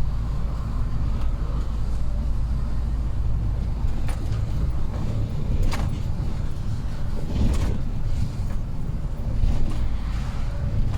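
A truck's engine running steadily with a low drone while driving, with a few short sharp knocks or rattles about four, six and seven and a half seconds in.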